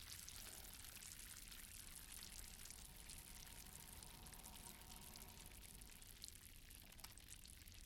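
Near silence: only a faint, even hiss of lake water.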